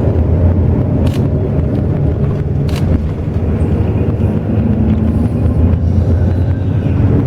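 Inside a moving intercity bus: its engine drones steadily under road noise, with two brief rattles, about one and nearly three seconds in.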